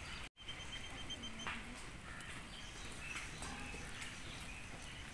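Faint outdoor ambience with small birds chirping now and then, including a quick run of short high repeated notes about a second in.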